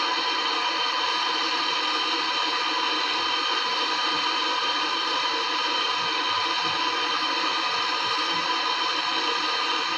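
Steady hiss with several fixed whining tones over it, unchanging throughout.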